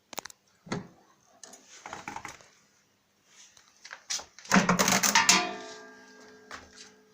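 Hard objects being handled: a few knocks and rattles, then a loud clatter about four and a half seconds in that leaves a ringing metallic tone slowly dying away.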